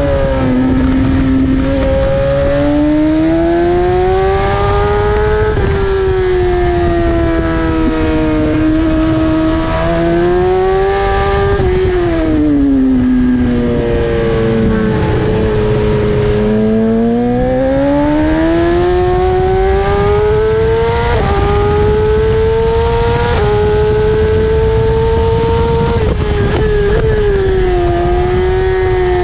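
BMW S1000RR's inline-four engine accelerating hard up through the gears, its pitch climbing and then dropping sharply at each upshift. Midway it falls off to a low pitch as the bike slows for a corner, then climbs again. Wind rushes steadily over the microphone.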